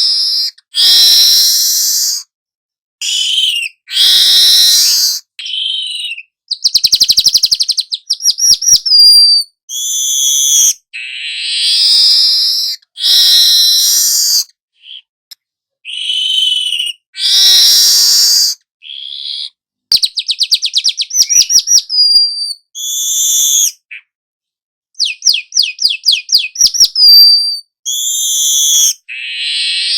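Young weaver bird (manyar) singing steadily, phrase after phrase of loud, high chirps and whistles. Three times the phrases break into a rapid buzzy trill of quick repeated notes.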